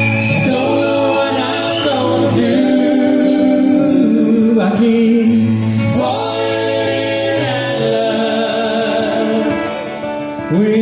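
A live soft-rock band plays a song while several voices sing long held notes in harmony over a sustained bass.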